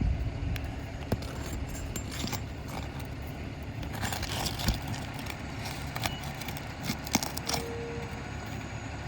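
Metal roof-snake shingle ripper clinking and scraping against asphalt shingles and roofing nails, with scattered sharp clicks and a cluster of scrapes about four seconds in, over a steady low background rumble.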